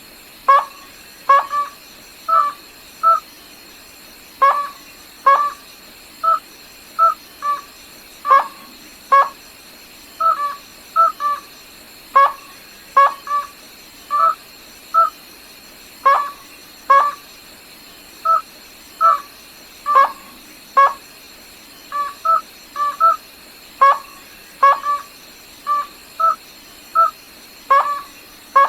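White-throated rail calling: a long run of short, clear, hooting notes, about one or two a second, with louder paired calls every second or so.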